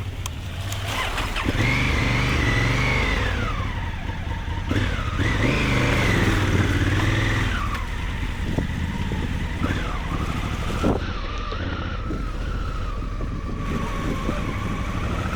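Maxi-enduro motorcycle engine revving hard twice, its pitch climbing and falling each time, then running on steadily at lower revs.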